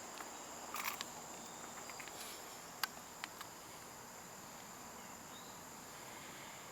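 Steady, faint high-pitched drone of summer insects, with a brief rustle about a second in and a sharp click near the middle.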